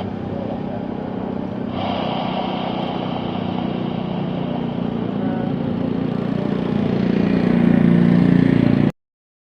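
Jet airliner engines running steadily and growing louder, then cut off abruptly near the end.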